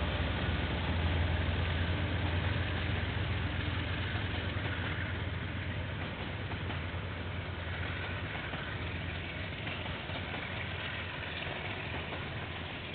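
Diesel locomotive engine running with a low, steady rumble that slowly fades, heard through a security camera's microphone.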